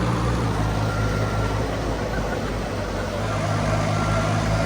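Diesel engine of farm harvesting machinery running steadily. Its pitch dips slightly about half a second in and comes back up about three seconds in, with a faint steady whine above it.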